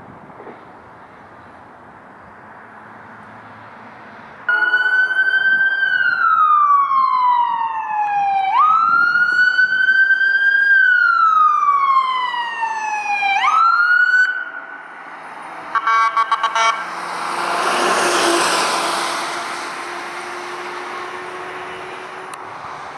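Emergency vehicle siren switching on about four and a half seconds in, sweeping slowly up and down in a wail for about ten seconds. Then a quick series of short blasts, followed by the rushing noise of the vehicle passing close by.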